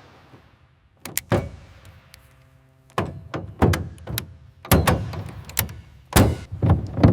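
A few sharp clicks, then an irregular string of heavy knocks and thunks about every half second to second, some with a brief ringing tail.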